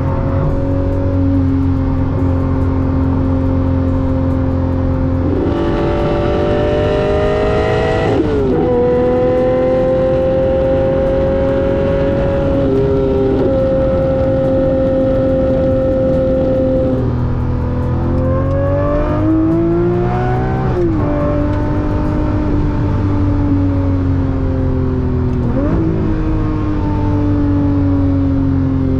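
Lamborghini Murcielago SV's 6.5-litre V12 under way: it runs steadily, climbs in pitch under acceleration and drops sharply on an upshift about eight seconds in, then cruises. It pulls again to a second upshift about twenty-one seconds in and settles, with another brief dip and recovery near the end.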